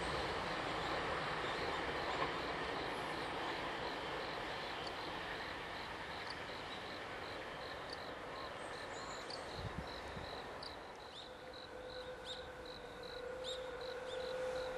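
A Thunderbird limited-express electric train running away along the track, its rumble fading over the first several seconds. Insects then chirp in a steady pulse of about three a second, with a few bird chirps and a faint steady hum joining near the end.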